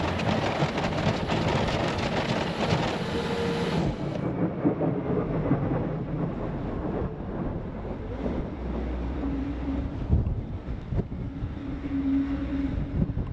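Bobcat T66 compact track loader running with its snowblower attachment: a loud, rough machine noise for about the first four seconds, then duller and quieter for the rest.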